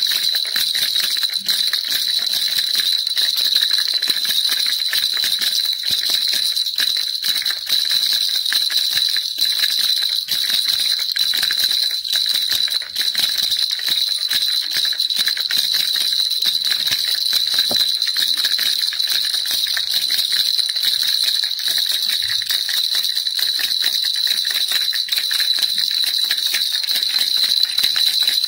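A baby rattle shaken without a break: a dense, even jingling with a bright steady ring high in pitch.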